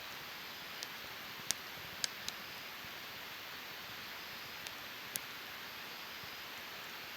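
Wood fire burning in a Snow Peak fire stand: a steady hiss with sharp crackling pops about six times, the loudest about one and a half and two seconds in.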